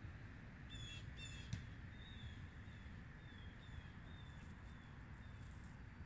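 Birds calling: two short calls in quick succession about a second in, over faint high chirps repeated every half second or so. A steady low rumble runs underneath, and a single sharp click comes about a second and a half in.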